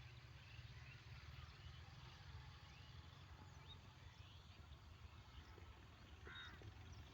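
Faint outdoor ambience: a low steady rumble with scattered small bird chirps, and a crow cawing once near the end.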